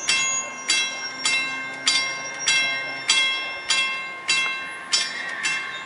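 Railway warning bell striking steadily, a little under two strikes a second, each strike ringing on into the next.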